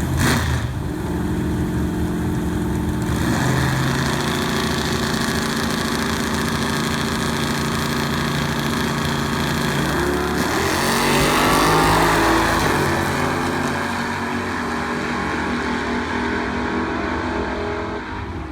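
Car engine running steadily, its pitch stepping now and then, with a louder swell of noise about ten to twelve seconds in.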